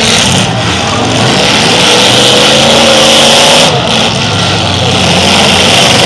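Demolition derby cars' engines running loud and revving hard, with one engine's pitch rising for a couple of seconds near the middle.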